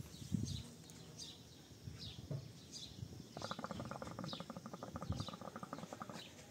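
Small birds chirping: short, high, falling chirps repeated about twice a second. A buzzing rattle joins them a little past the midpoint and lasts almost three seconds, with a few soft low thumps.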